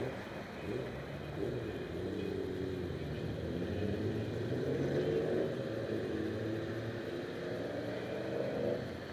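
Motor vehicle engine running, its pitch and loudness rising a little toward the middle and then easing off.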